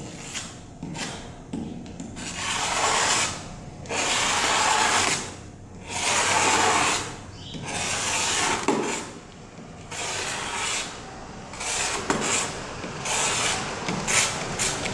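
A blade shaving cured polyurethane spray-foam overspray off a plastic tail light lens, in repeated long scraping strokes about every two seconds.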